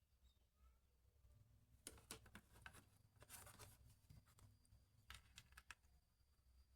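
Faint clicks and scraping in three short bursts, from small parts or tools being handled at a workbench.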